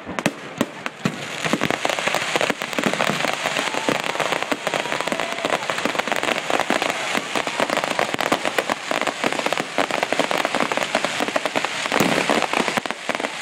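Fireworks going off in a dense, unbroken stream of crackling pops and small bangs, like strings of firecrackers, with a few sharper cracks standing out in the first second or so.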